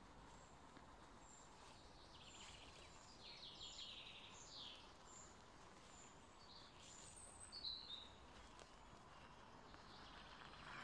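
Near silence with faint outdoor birdsong: a short high note repeated at fairly even spacing, and a few quicker chirping phrases.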